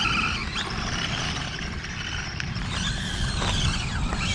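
Electric motor of a radio-controlled pickup truck whining as it is throttled up and down, with a rising and falling whine about three seconds in over a steady low rumble.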